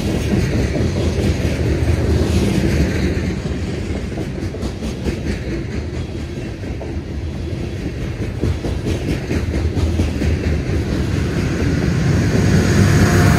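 Loaded hopper cars of a freight train rolling past close by: a steady rumble of wheels on rail with clickety-clack over the joints. Near the end a diesel locomotive at the tail of the train grows louder as it nears.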